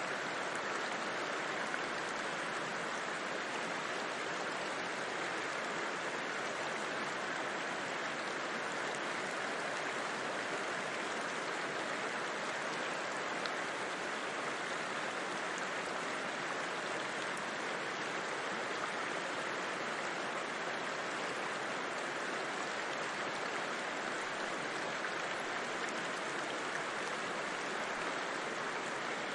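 A river flowing steadily: a constant, even rush of water with no breaks or single splashes.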